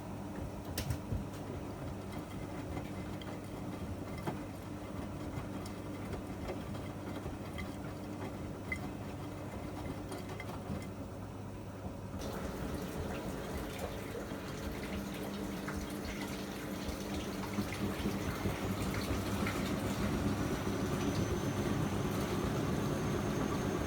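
Miele MedicWash W2585 washing machine with a steady low hum; about halfway through, water suddenly starts rushing in to fill the drum and grows louder, with a faint high whistle near the end.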